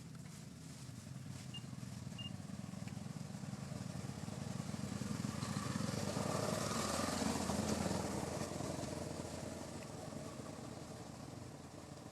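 A motor vehicle passing by: its engine hum grows louder to a peak about two-thirds of the way through, then fades away.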